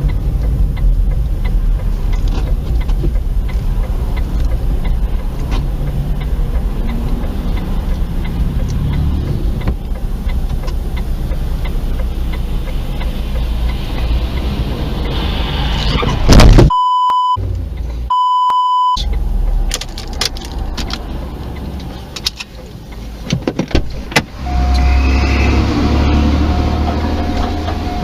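Steady low road and engine rumble of a car heard from a dashcam inside the vehicle. A sudden loud burst comes a little past halfway, followed by two short electronic bleeps. Later a steady tone is held to the end.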